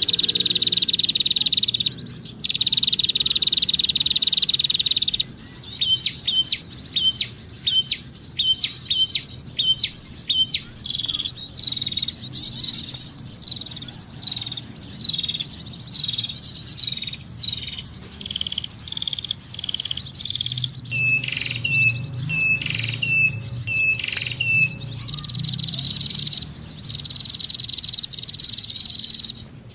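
A bird calling a long run of short, sharp chirps, about two a second, dropping to a lower note near the end. The chirps come between stretches of a steady high-pitched buzz.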